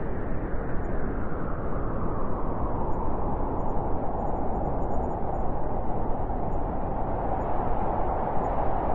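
Blizzard wind blowing steadily: a dense, continuous rushing with a hollow mid-pitched howl that grows a little stronger over the second half.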